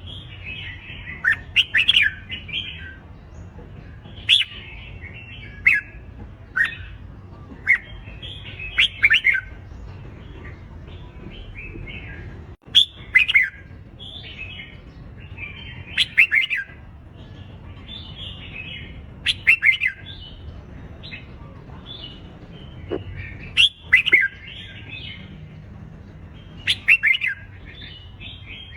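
Red-whiskered bulbuls giving their aggressive contest song: short, sharp, chattering phrases repeated every second or two over a low steady hum.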